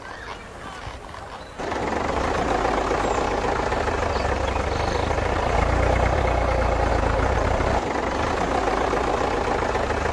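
A small motor starts running abruptly about one and a half seconds in and keeps running steadily, with a low rumble under a noisy hum.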